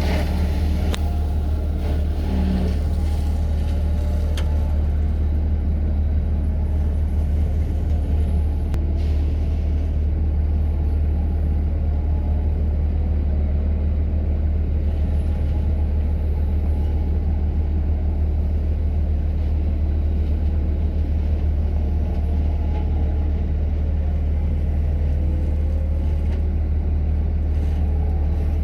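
A diesel engine running steadily with a deep, even drone and no revving, typical of a skid steer at work. A few light knocks come early on.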